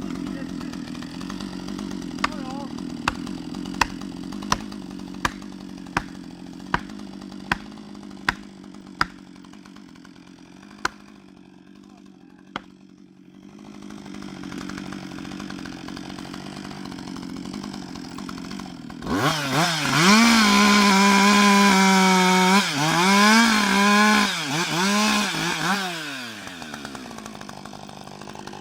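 Husqvarna 560 XP two-stroke chainsaw idling, with a run of about a dozen sharp knocks roughly one a second. After a short lull it is opened to full throttle and cuts into the wood for about six seconds, its pitch dipping each time the chain bogs under load, then drops back to idle.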